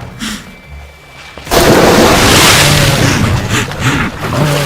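A sudden loud splash about a second and a half in as a Nile crocodile lunges out of the river, followed by churning water with low animal grunts and bellows.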